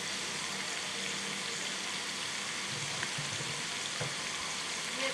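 Fried tofu cubes sizzling steadily in hot oil in a wok, with a couple of faint clicks about three and four seconds in.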